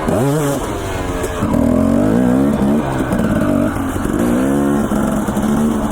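Dirt bike engine being ridden, its pitch rising and falling with the throttle: a quick chop and pick-up right at the start, then longer pulls at higher revs.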